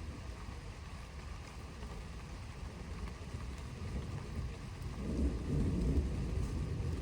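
Thunder rumbling from an approaching thunderstorm, a low rumble that swells about five seconds in.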